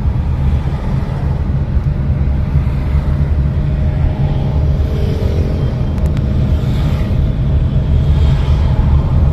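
Car being driven on the road: a steady low rumble of engine and road noise.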